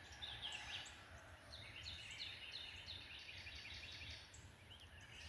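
Faint bird chirping: a fast run of short, high, downward-sliding chirps, densest in the middle, over a low steady outdoor rumble.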